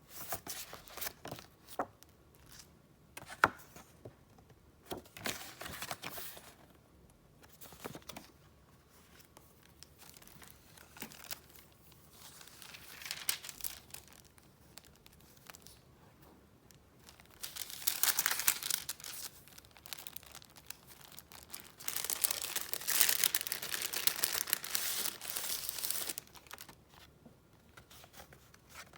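Paper and gift wrapping being handled by hand: short bursts of rustling, then two longer, louder stretches of handling in the second half.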